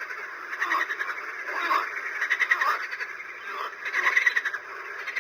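Frogs croaking, with pulsed calls repeating about once a second.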